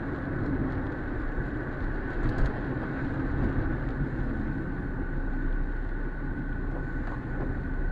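Vehicle driving noise picked up by a dash cam: a steady low rumble of engine and tyres on the road, with a thin steady whine running over it.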